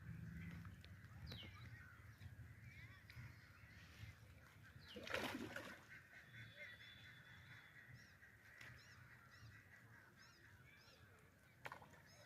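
Faint outdoor quiet with distant bird calls, and a brief louder sound about five seconds in.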